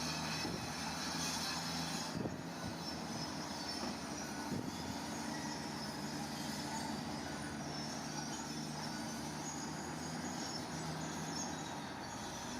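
Diesel engine of heavy earthmoving machinery running steadily, with a couple of short knocks about two and four and a half seconds in.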